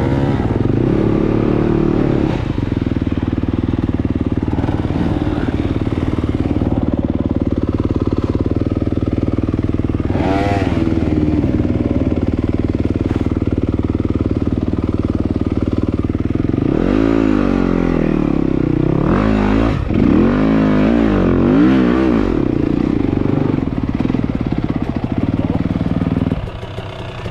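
Dirt bike engine running hard on a trail ride, revving up and down repeatedly, with the strongest run of revs in the second half, then falling away near the end.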